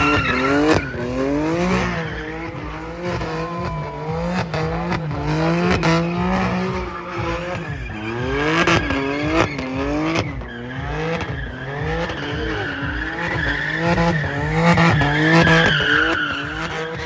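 Car engine revving hard again and again, its pitch climbing and dropping about once a second, with sharp cracks and tyres squealing and skidding. The tyre squeal is loudest near the end.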